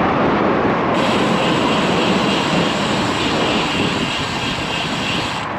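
Wind rushing over the microphone of a moving bicycle, mixed with road noise. A steady higher hiss joins about a second in and cuts off suddenly near the end.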